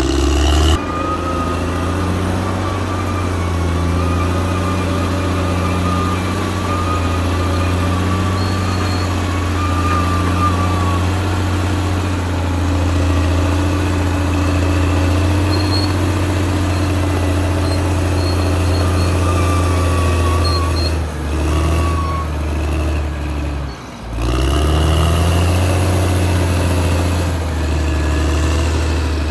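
Caterpillar D6R XL bulldozer's diesel engine running steadily under load, with a high whine above the engine note. The engine drops briefly about two-thirds of the way through, and again a few seconds later, then revs back up.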